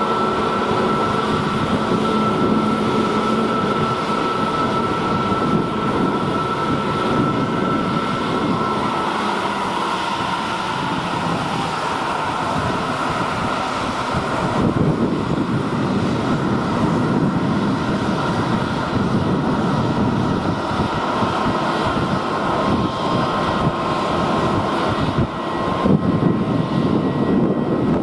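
Jet airliner engines running with a steady roar and a high whine that glides down in pitch about ten seconds in, with strong wind buffeting the microphone.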